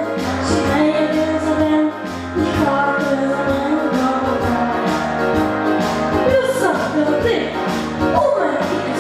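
Solo voice singing a pop song with instrumental accompaniment.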